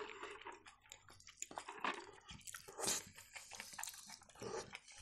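Faint, close-miked eating sounds: chewing and mouth smacks, with scattered small clicks, as napa-cabbage rolls are eaten.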